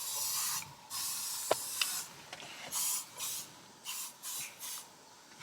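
Aerosol insect repellent sprayed in a series of hissing bursts, the first two about a second long and several shorter ones after them.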